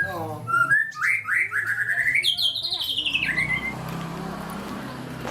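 Cinereous tit (gelatik batu) singing: one fast trill of short repeated notes lasting about three seconds, climbing in pitch and then dropping at the end.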